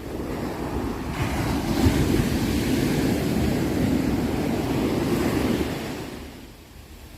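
A sea wave breaking and washing up the shore: a rushing noise that swells about a second in, holds, and fades away near the end.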